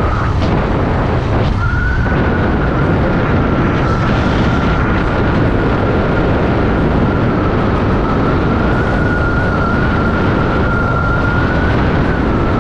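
Royal Enfield Continental GT 650 parallel-twin motorcycle being ridden, its engine running steadily under heavy wind noise on the microphone, with a steady high whistle over the top.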